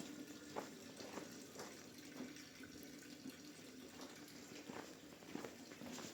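Footsteps walking through snow at a steady pace, about two steps a second, over a steady low background.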